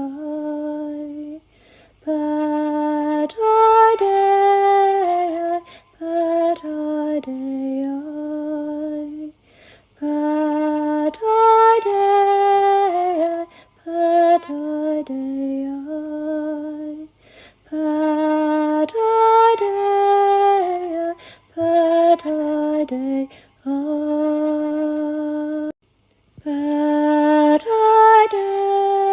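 Unaccompanied solo female voice singing a slow, lullaby-like chant in phrases of a few seconds, with short breath pauses between them.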